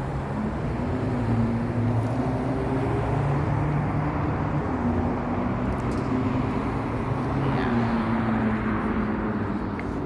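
Road traffic passing: a steady rush of tyre noise with a vehicle engine's hum rising and falling in pitch over a few seconds.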